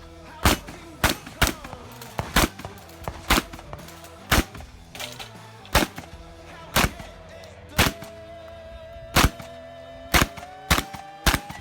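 Pump-action Remington 870 12-gauge shotgun fired in a rapid string of about a dozen and a half shots, roughly one a second, with background music under it.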